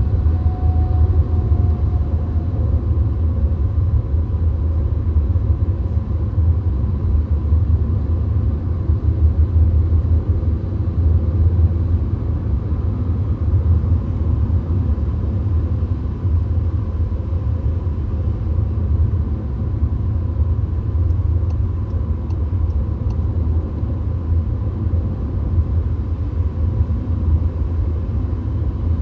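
Steady low rumble of a VW Golf cruising on the highway, heard from inside the cabin: tyre, road and engine noise with no change in speed.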